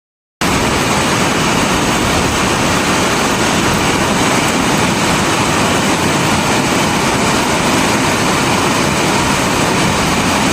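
Steady heavy rainfall, a dense even hiss and rush with no separate drops standing out. It resumes after a brief dropout to silence at the very start.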